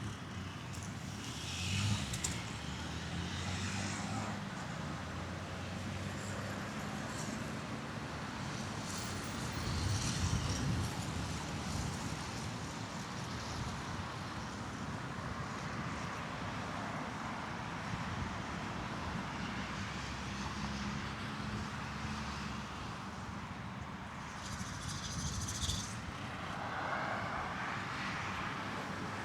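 Road traffic: cars passing one after another, their engine hum rising and fading over a steady traffic noise.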